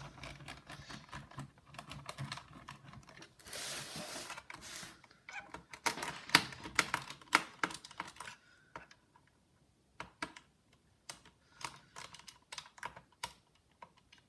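Irregular small clicks and taps of a precision screwdriver and hands handling a laptop's plastic case, with a short scraping rustle about four seconds in and a dense run of clicks shortly after.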